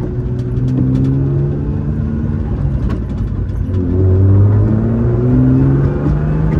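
BMW engine with a homemade straight-pipe exhaust in place of the muffler, accelerating hard under load. Its pitch climbs, drops back once partway through, then climbs again.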